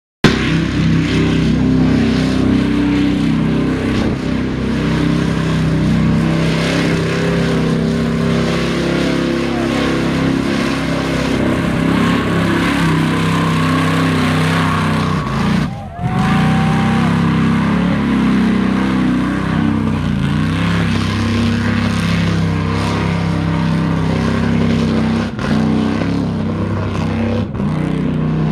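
Mud truck's engine running loud under hard throttle, its pitch rising and falling as it revs, with a brief drop about halfway through.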